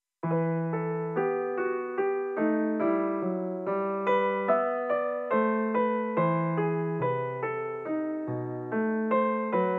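Slow solo piano music starting a moment in: an even run of single notes, about two a second, each struck and then fading.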